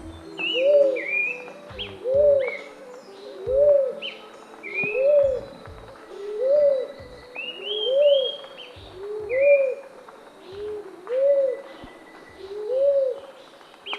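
Birds calling: a low two-note call repeats about every second and a half, about ten times, with higher short chirps from other birds between and above it.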